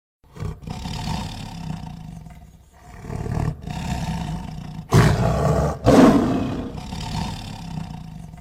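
A large animal calling: a run of rough, throaty calls, the two loudest about five and six seconds in, then fading away.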